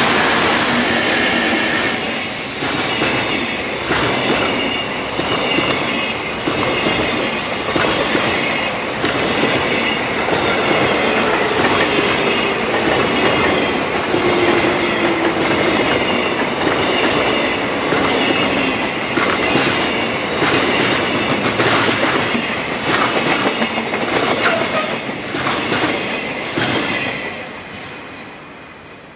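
Container freight train rolling past close by: a steady wheel rumble with repeated clacks of wheels over rail joints and a thin high wheel squeal. It fades away near the end as the last wagons pass.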